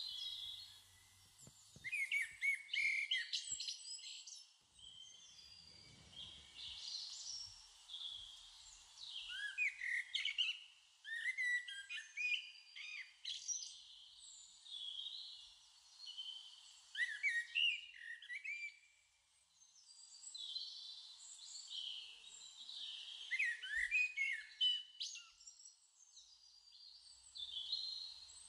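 Birdsong: several birds chirping and whistling in short quick phrases that come in clusters every few seconds, over a faint steady hiss.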